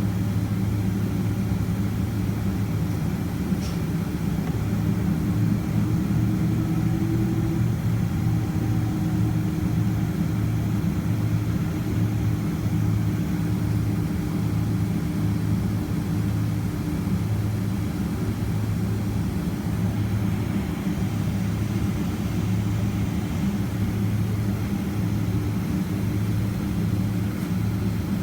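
Steady low cabin hum of a Boeing 767-300ER's jet engines running at low, even power, heard from inside the passenger cabin, with a faint steady whine that rises slightly a few seconds in and fades out past the middle.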